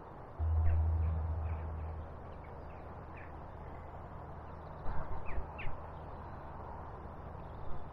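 Birds calling at intervals with short chirps. A low steady hum is heard for the first couple of seconds, and a few louder knocks or calls come about five seconds in.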